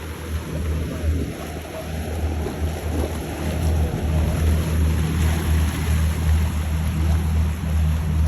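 Motorboat engines rumbling as boats run through the inlet, mixed with wind buffeting the microphone and the wash of water.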